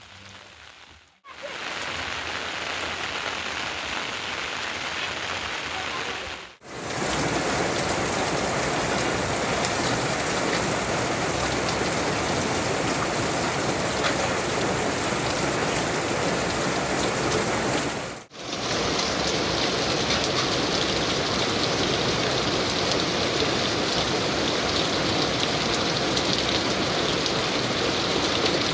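Heavy rain falling, a steady hiss of drops on surfaces. It breaks off for a moment three times, about a second in, around six seconds and around eighteen seconds, and is louder after the second break.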